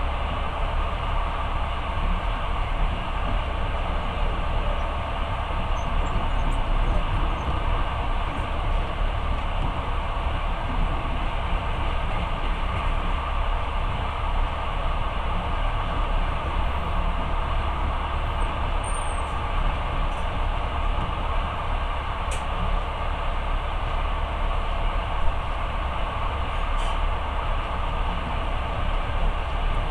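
Steady running noise of a moving passenger train, a low rumble with a hiss above it, heard from inside the carriage, with a faint click or two.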